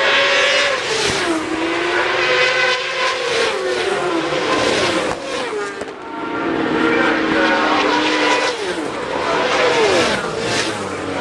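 Racing superbikes on track, their engines loud with the pitch falling in steps several times and climbing again in between.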